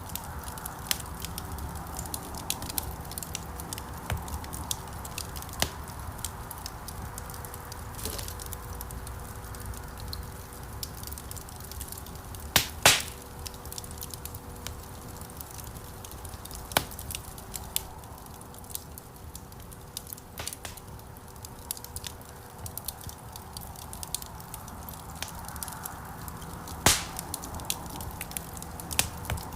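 Wood fire crackling in a stone fireplace: a dense run of small snaps and ticks over a low rumble of flames. There are louder pops, a pair about halfway through and one near the end.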